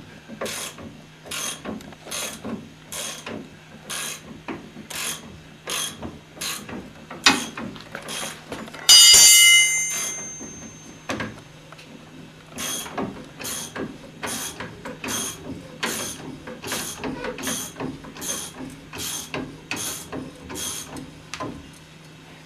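Socket ratchet on a long extension being worked back and forth, clicking in steady strokes about every three quarters of a second, as it backs off the load on a Mercedes 300D front coil spring. About nine seconds in, a loud metallic clang rings briefly.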